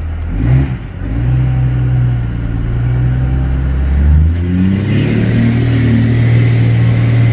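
Diesel truck with a 4-inch MBRP exhaust accelerating hard at full throttle. The engine note climbs, drops about four seconds in, and climbs again, with a thin rising whistle above it near the end.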